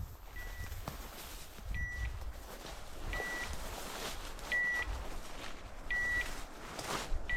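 Dog's beeper collar in point mode: a short, high, steady beep about every second and a half, signalling that the dog is standing on point. Brush rustling and footsteps sound underneath.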